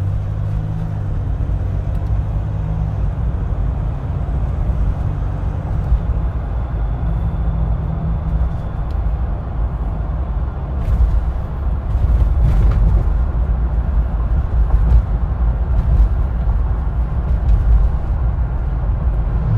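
A 2021 Jeep Wrangler's 3.0-litre turbo-diesel V6 running at cruise, heard from inside the cabin as a steady low hum with road rumble; the rumble grows a little louder about halfway through.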